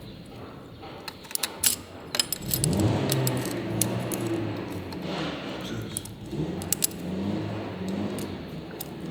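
Metal tools and small engine parts clinking and rattling against each other in a series of sharp clicks, several bunched together in the first half and a few more later on.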